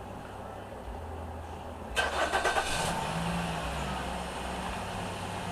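Nissan Rogue's engine cranking on the starter about two seconds in, catching after under a second and settling into a steady idle.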